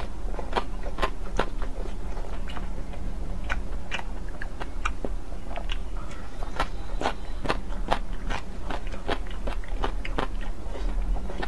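Close-miked eating: chewing of soft dumplings and spicy shredded papaya, with irregular sharp crisp clicks and mouth smacks a few times a second.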